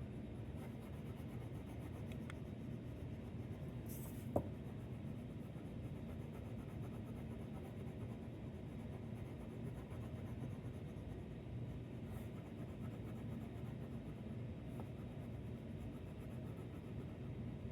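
Crayon scribbling back and forth on paper to colour in a shape: a steady, scratchy rubbing, with one sharp tap about four seconds in.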